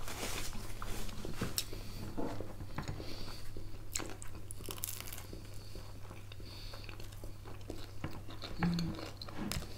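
Close-miked eating: biting and chewing bread sandwiches topped with sprats and pickled cucumbers, with scattered crisp crunches and mouth sounds over a steady low hum.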